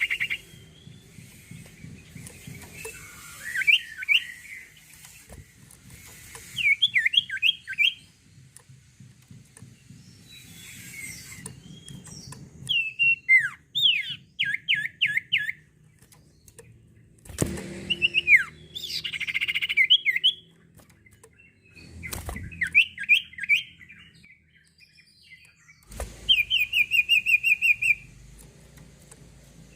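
A sirtu songbird singing energetically: phrases of rapid, sharply falling chirps repeated every few seconds with short pauses between, ending in a fast, even trill. This kind of non-stop 'gacor' song is used by keepers as a bait recording to set other birds singing.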